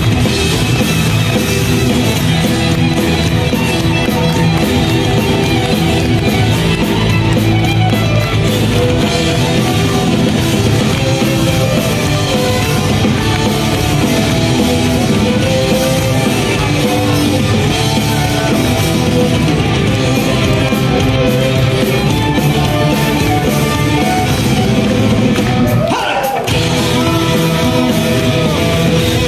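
A rock band playing live, with electric guitar, bass and drums, and singing at times. About 26 s in the sound dips briefly and a short gliding tone sounds, like a guitar slide.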